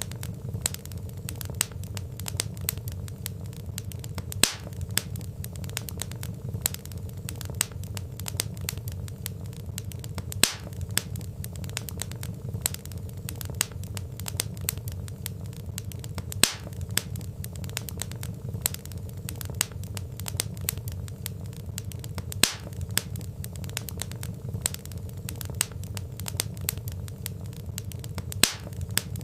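Wood fire crackling: burning logs giving frequent sharp pops and snaps over a steady low rush of flame, with a louder pop about every six seconds.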